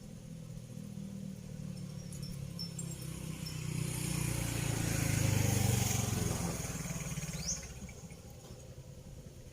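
A motor vehicle passing close by: engine and tyre noise build up, are loudest about five to six seconds in, then fade away.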